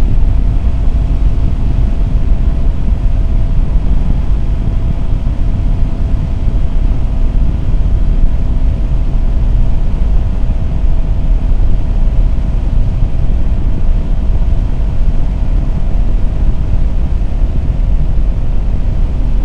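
Kawasaki Z400's parallel-twin engine running at a steady cruising speed, with heavy wind rush and buffeting on the rider's microphone.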